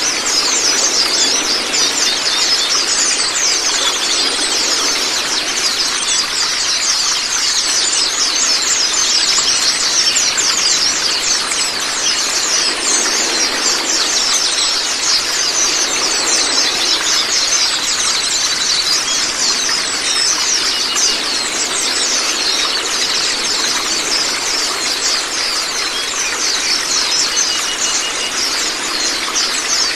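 White-eyes (Zosterops) twittering in a dense, unbroken stream of rapid high chirps over a steady rush of running water.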